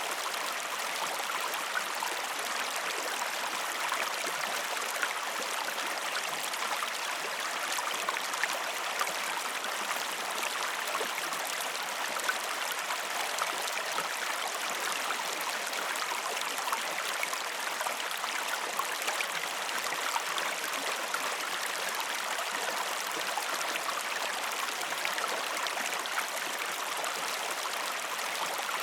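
River water flowing steadily, with a continuous rushing sound and fine splashing and bubbling.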